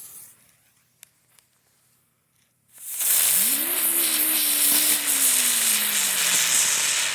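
Ground bloom flower firework catching about three seconds in and spinning: a loud, steady hiss of sparks with a low tone underneath that rises quickly and then slowly sinks in pitch. A few faint clicks come before it catches.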